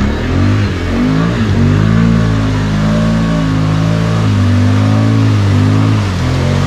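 Can-Am Outlander ATV's V-twin engine revving. Its pitch swings up and down several times, holds high and fairly steady for a few seconds, then drops near the end.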